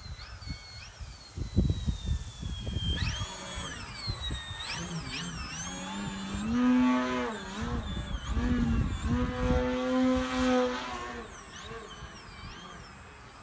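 Electric control-line model airplane's motor and propeller whining as it circles, the pitch rising and falling and the sound swelling twice as it passes close by. Wind buffets the microphone at the start.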